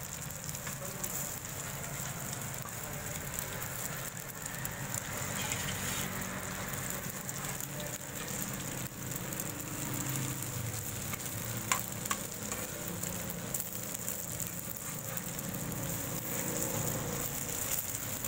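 Egg omelette sizzling in oil on a flat iron tawa, with a metal spatula scraping and turning it on the pan. Two sharp taps of the spatula on the iron come about two-thirds of the way through.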